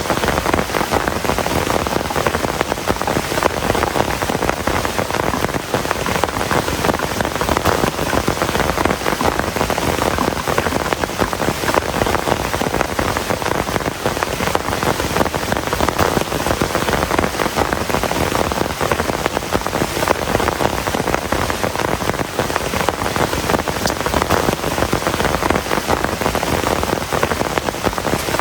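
Heavy rain falling steadily, a dense, even patter with no letup.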